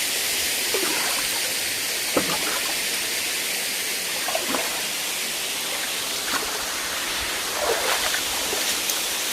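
Waterfall pouring steadily into a pool, an even rush of falling water, with a few short faint sounds over it.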